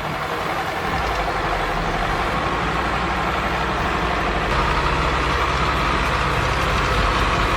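Heavy vehicle engine running steadily, growing a little louder about halfway through.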